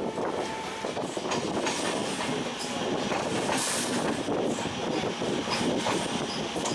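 A train running on the track: a steady rolling rumble of wheels on rail, with scattered clicks and faint squeaks.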